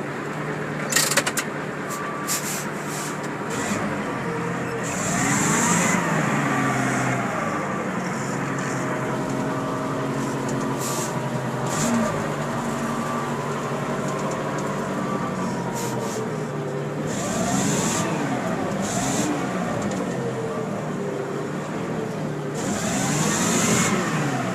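Caterpillar mining haul truck's diesel engine running, its pitch rising and falling three times. A short high hiss comes with each rise, and there are a few sharp clicks about a second in.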